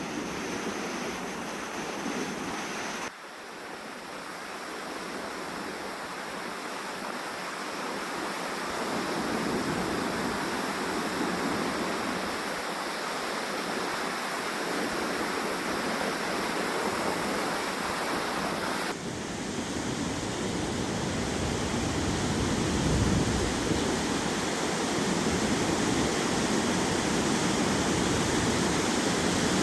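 Lake waves washing onto the shore, mixed with strong wind buffeting the microphone. The sound changes abruptly about three seconds in and again past the halfway point, and after that the low wind rumble is heavier.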